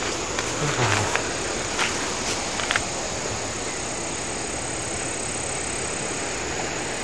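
Strong wind blowing through trees, a steady rushing noise strong enough to strip the leaves, with a few light ticks in the first few seconds and a thin high steady tone underneath.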